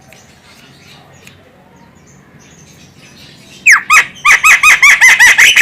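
Javan myna (jalak kebo) calling. After a quiet stretch, a loud rapid run of squeaky, arching notes starts about two-thirds of the way in, roughly five a second.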